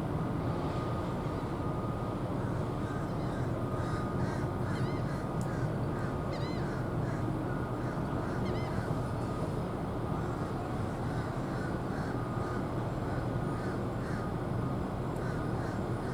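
Steady low background rumble with a run of short bird calls in the middle.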